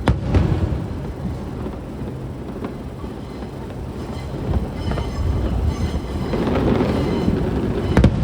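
Aerial fireworks going off: a sharp boom at the start and another near the end, with a low rolling rumble and scattered crackling between.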